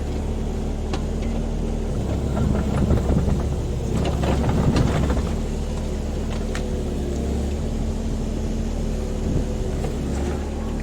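Diesel engine of a JCB 30 Plus mini excavator running steadily while it works, growing louder and rougher for about three seconds from about two seconds in. Scattered sharp clicks and knocks sound over it.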